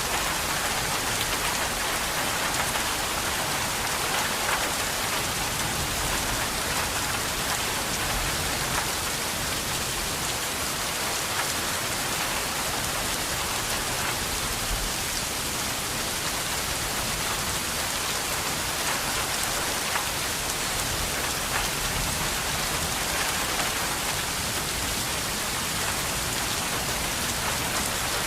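Steady, continuous rain falling and pattering on a surface, with scattered individual drops ticking through it.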